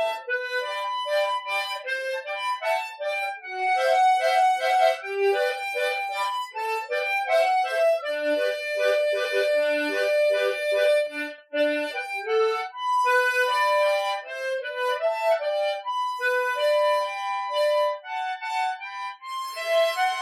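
Solo harmonica playing a slow ballad melody with a broken-chord and broken-bass accompaniment: quick short chord and bass notes under the tune, with one long held melody note near the middle.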